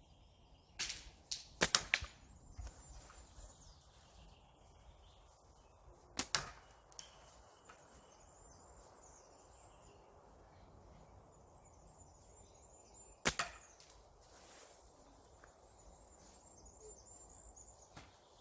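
Slingshot being shot with heavy flat rubber bands: a few sharp snaps, several coming in pairs a fraction of a second apart, with long quiet gaps between them.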